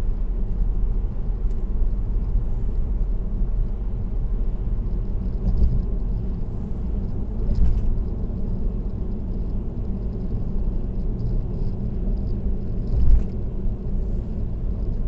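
Steady low road noise of a car cruising on an expressway, heard from inside the car, with two brief louder swells, one about halfway through and one near the end.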